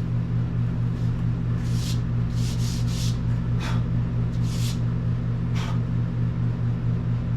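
A steady low electrical-sounding hum, with about five short scraping or rustling noises between roughly two and six seconds in.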